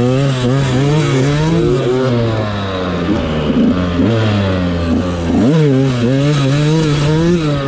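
Dirt bike engine revving hard while riding through sand. The pitch climbs and holds, then drops and climbs again as the rider shifts, once right at the start and again about five and a half seconds in.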